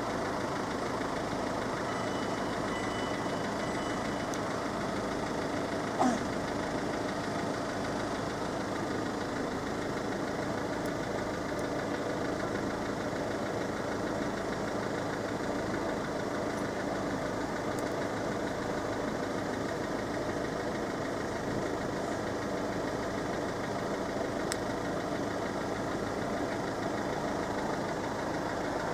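Steady hum of road vehicles idling at a closed level crossing, with a single sharp knock about six seconds in.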